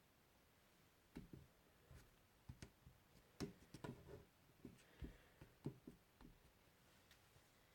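Irregular soft clicks and knocks, a dozen or so, from about a second in until about six seconds in.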